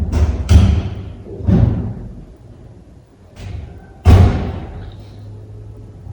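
A series of heavy thumps at irregular intervals, the loudest about half a second in and again about four seconds in.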